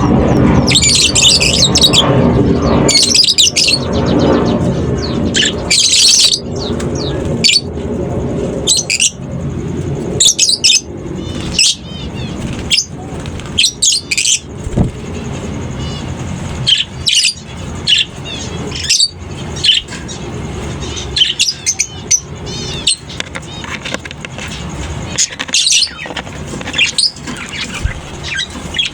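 Colony of lovebirds in an aviary calling, a steady run of short, shrill chirps and squawks from many birds. Under them is a low background rumble, loudest in the first few seconds.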